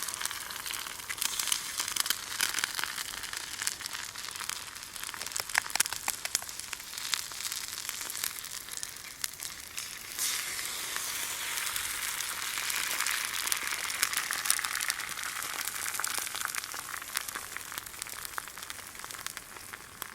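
Cooking over an open wood fire: a steady sizzling hiss full of many sharp crackles and pops.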